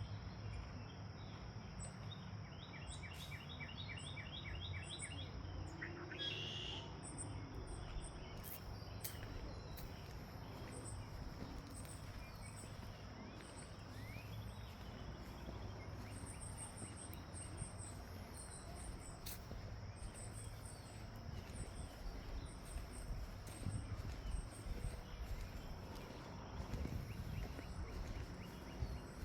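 Outdoor ambience of insects chirping in short, very high pulses, with a bird singing a rapid trill of evenly spaced notes about three seconds in and a short call soon after. A steady low rumble runs underneath.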